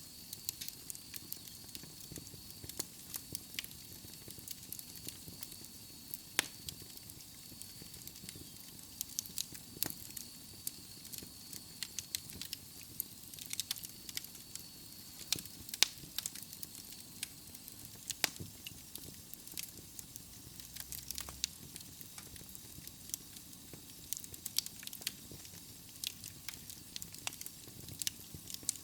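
Logs burning in a fireplace: irregular sharp crackles and pops over a steady soft hiss, with a faint thin high tone through the first half.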